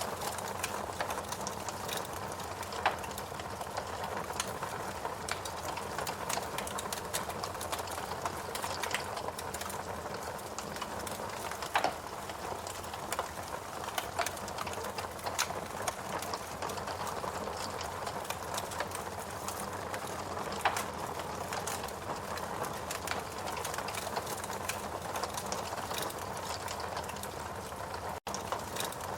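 Wood fire crackling in a fireplace: a steady hiss of burning logs with constant small snaps and a few louder pops. The sound cuts out for a moment near the end.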